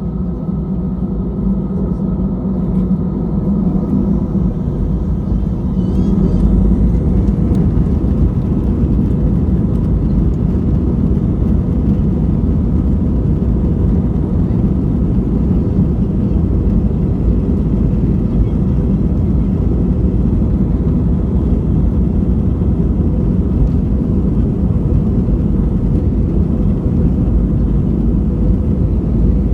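Cabin noise of an Airbus A320-214: the CFM56 jet engines and the rumble of the airliner rolling on the ground, growing louder over the first six seconds and then holding steady.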